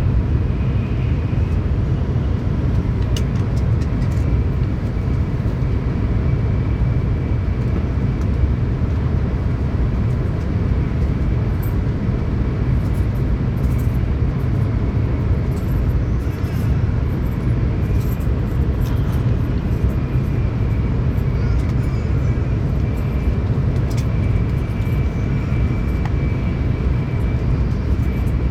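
Tokaido Shinkansen train running at high speed, heard inside the passenger car: a steady low rumble of wheels and air, with a faint high whine that fades in and out.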